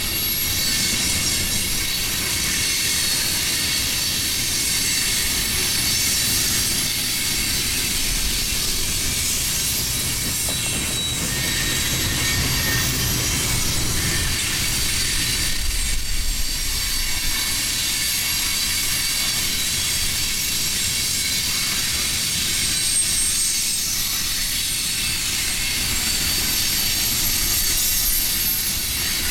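Freight train cars rolling steadily past on the rails, a continuous rumble and hiss of wheels on track with thin, high wheel squeal held throughout.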